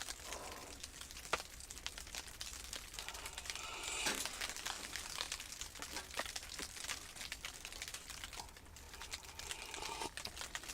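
Quiet crinkling and rustling of something being handled, made up of many small, irregular crackles, a little denser about four seconds in.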